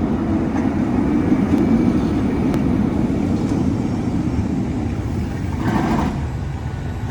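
Steady rumble of road traffic, with a brief louder rush of noise about six seconds in.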